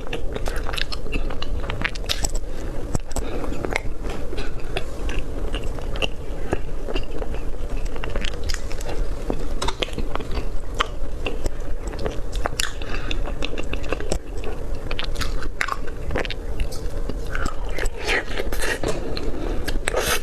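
Close-miked eating of cream roll cake: irregular wet mouth clicks, smacks and chewing, over a steady low background hum.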